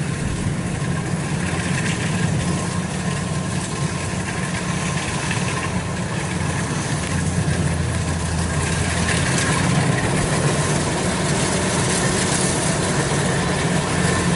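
Kubota DC-93 combine harvester running steadily while cutting rice: a continuous low engine drone with machinery noise, growing slightly louder in the second half.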